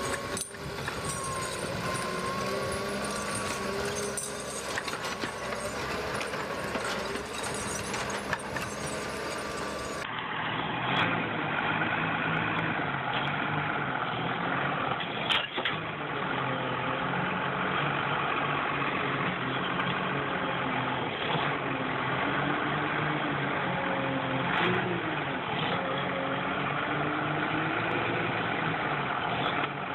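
An engine running, its pitch drifting up and down, with a few sharp knocks. About ten seconds in the sound changes abruptly to a duller, lower-fidelity recording of an engine running.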